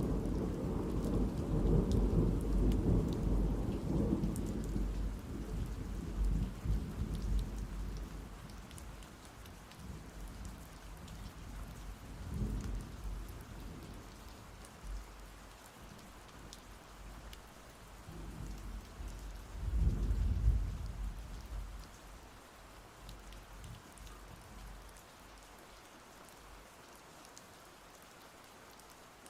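Thunderstorm: steady rain with rolling thunder. A long low rumble fades over the first eight seconds, a short rumble comes about twelve seconds in and a louder one about twenty seconds in, leaving only the rain near the end.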